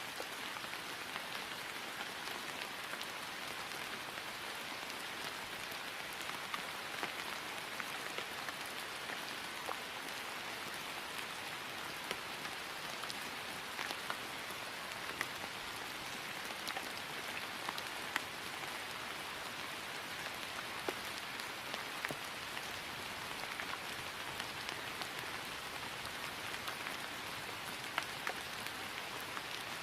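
Steady rain falling on grass: an even hiss with scattered louder drop ticks.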